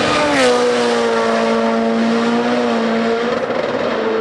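A Rally1 rally car's turbocharged four-cylinder engine passes flat out. Its note drops in pitch as the car goes by about half a second in, then holds a steady high-revving note.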